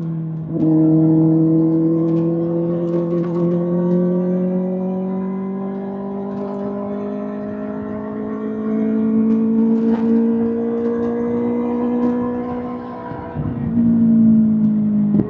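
Kawasaki ZX-6R inline-four engine running through an SC-Project SC-1R exhaust under way, its note rising slowly and steadily, with brief breaks in the note about half a second in and again near the end.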